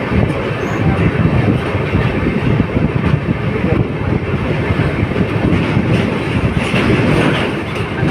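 Passenger express train running over a railway bridge: a loud, steady rumble with rapid, continuous clatter of wheels on the rails.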